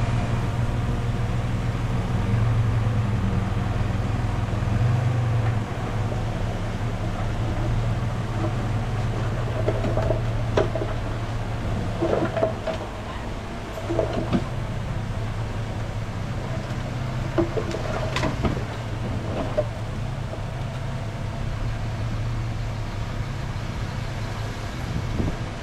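Bulldozer's diesel engine running steadily under load, with a few sharp metallic clanks from the tracks and blade in the middle stretch.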